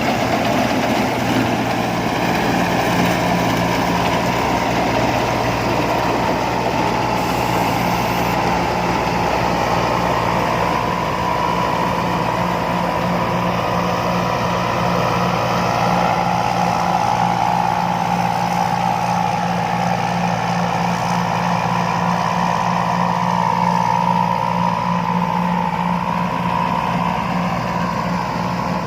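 Combine harvester's diesel engine running steadily at a constant speed, with a higher whine above the engine hum that wavers slightly in pitch.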